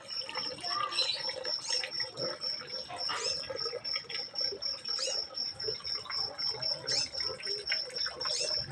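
Pet birds in an aviary chirping in short scattered calls, over a steady high pulsing trill like a cricket's.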